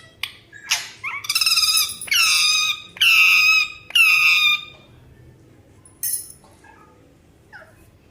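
A pet animal making four long, drawn-out calls in quick succession, each lasting well under a second, with a few short squeaks and clicks before and after them.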